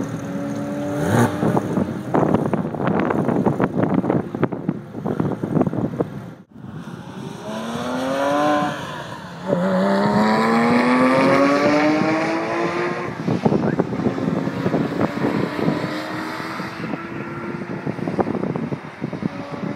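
Porsche 911 (997) GT3 RS 4.0's 4.0-litre naturally aspirated flat-six, first running steadily with wind buffeting the microphone. Then the car accelerates hard along the track: the engine note climbs, drops once at an upshift, climbs again for several seconds, and fades as the car pulls away.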